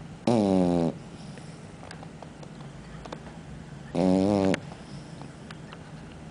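Boxer dog snoring: two loud, trumpet-like snores about three and a half seconds apart, each dropping slightly in pitch, with quieter breathing between them.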